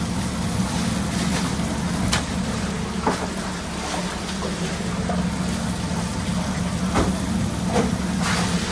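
Food-truck kitchen at work: a steady low hum and an even hiss of food sizzling on the griddle, with four sharp clacks of metal utensils.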